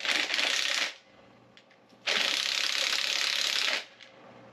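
A ratchet spinning fast, its pawl clicking rapidly, as nuts are backed off on a small-block Chevy 350: one spell of about a second, then a longer one of nearly two seconds.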